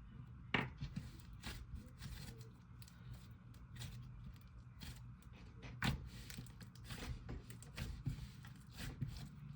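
Jelly slime with clay mixed in being squeezed and worked by hand, giving irregular small clicks and pops, the loudest about half a second and about six seconds in.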